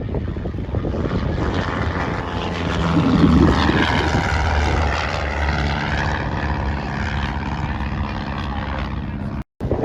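Propeller-driven light aircraft flying past, its engine swelling to its loudest about three seconds in and then easing off. The sound cuts off abruptly near the end.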